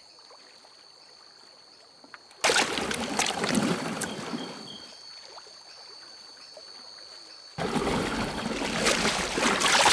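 Water splashing as caiman thrash at the surface of the river, in two bouts: a sudden splash about two seconds in that dies away, then a louder burst of splashing a little before the end.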